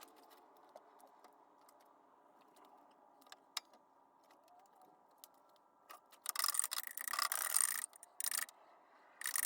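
Hand-tool and parts-handling noise on an engine under repair: a few faint metallic clicks, then from about six seconds in a burst of scraping and rattling, and another starting near the end.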